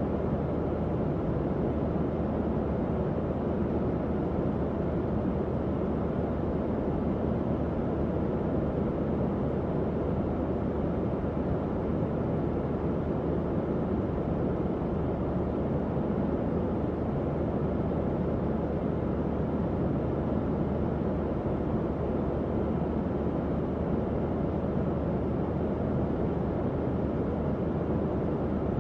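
Tower fan running steadily: an even, low-pitched whoosh of moving air with a faint underlying motor hum.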